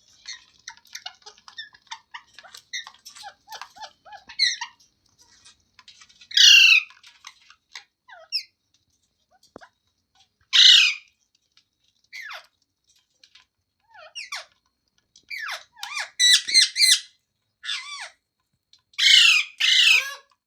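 Pet ringneck parrot calling. It chatters softly and rapidly for the first few seconds, then gives loud, harsh squawks: one around a third of the way in, one near the middle, a quick run of several later on, and two close together near the end.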